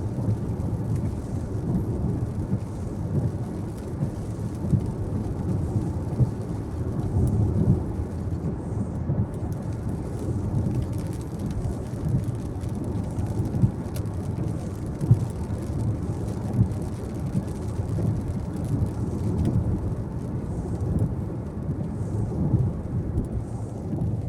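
Car driving along a road, heard from inside the cabin: a steady low rumble of tyre and engine noise with small bumps from the road surface.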